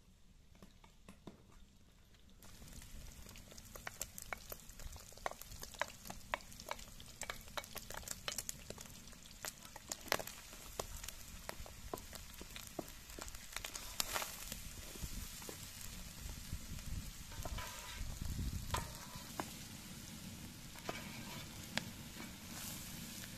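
Diced lamb liver, heart and kidney sizzling with chopped onion in a large metal pot, with a wooden spoon stirring and scraping against the pot in many short knocks. The sizzling starts about two and a half seconds in.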